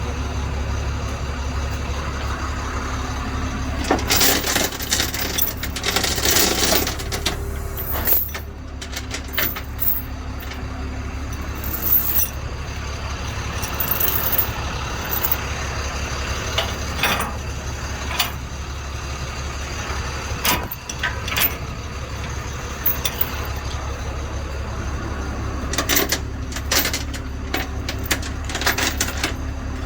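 Heavy truck engine idling steadily during a tow hook-up, with repeated bursts of hissing and metallic clanking from the tow gear being worked and tightened, a cluster of them about four to seven seconds in and more near the end.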